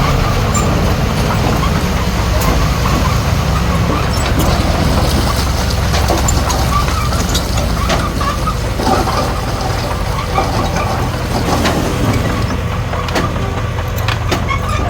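Heavy diesel earthmoving machinery running steadily, with scattered short clanks over the low engine sound.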